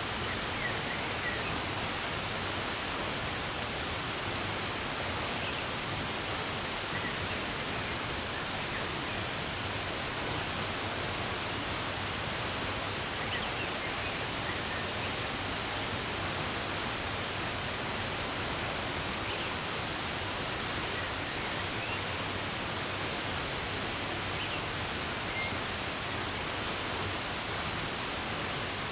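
Steady rush of running water, with faint, scattered bird chirps now and then above it.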